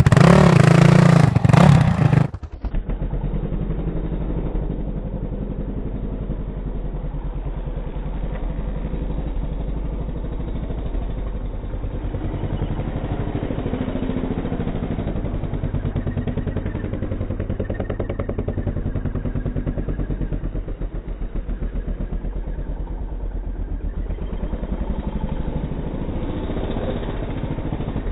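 Honda CRF450 dirt bike's single-cylinder four-stroke engine revving loudly for about two seconds. Then it cuts to the same engine sound slowed down: a low, drawn-out rumble with a fast pulsing.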